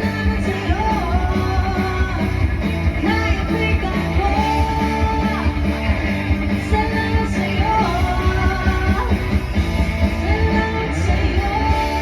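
Live band playing a rock song with a lead singer over guitar, bass and drums, a steady beat throughout.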